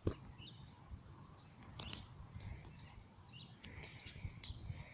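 Faint, scattered bird chirps over a low rumble of wind or handling noise, with a few sharp clicks.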